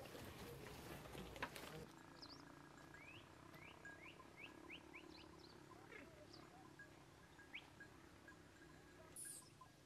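Faint rustling for about the first two seconds, then a series of short bird chirps, each rising in pitch, about two a second, with a few scattered chirps after.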